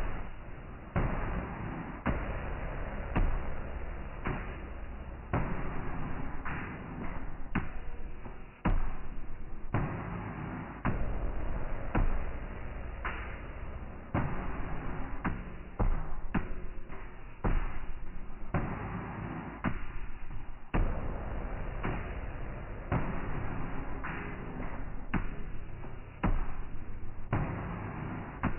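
Rushing, buffeting noise from a small FPV racing quadcopter in flight, heard on its own onboard mic, with sudden jumps in level and a knock or thump every second or so.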